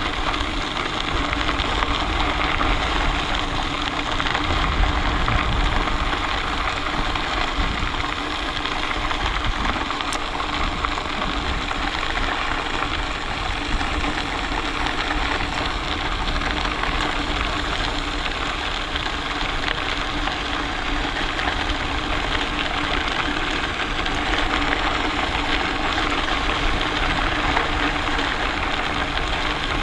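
Steady rushing noise of a bicycle ride, with a low rumble and a constant faint hum, unbroken and without distinct events.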